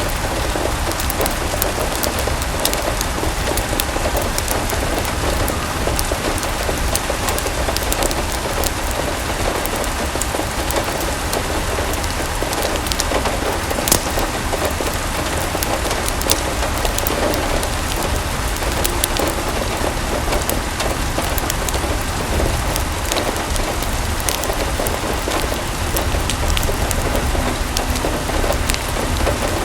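Steady rain falling, with scattered sharp ticks of drops and a low rumble underneath.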